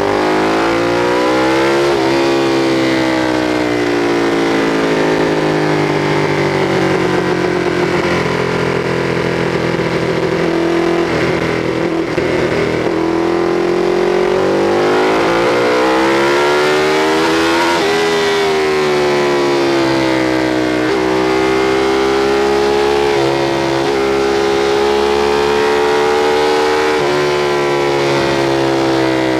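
Sport motorcycle engine under load, revving up and down through a run of corners, its pitch climbing and dropping repeatedly as the throttle is opened and closed, over a steady rush of wind.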